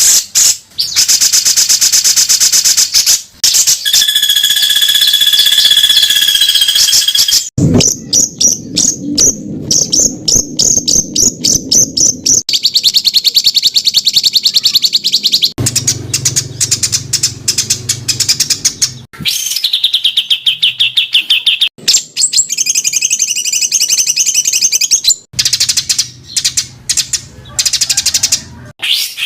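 Songbird song in dense, harsh rapid-fire phrases ('tembakan'): fast runs of sharp repeated high notes and trills, with a new bird's phrase spliced in abruptly every few seconds.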